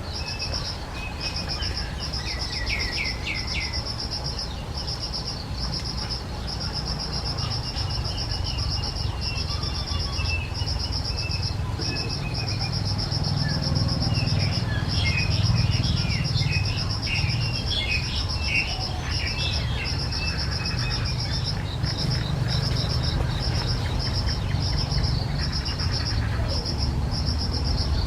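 A high-pitched insect chorus pulsing evenly throughout, with birds chirping over it: a few calls about two to four seconds in, and a dense run of quick, sharp chirps around the middle.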